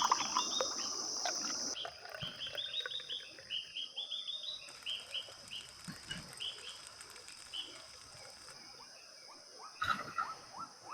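Small birds chirping in a quick run of short high notes, over a steady high-pitched insect drone that drops back about two seconds in; a few falling chirps come near the end.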